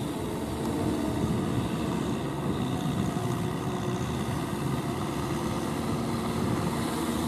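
Kubota M6040SU tractor's diesel engine running steadily under load as it tills a wet rice paddy.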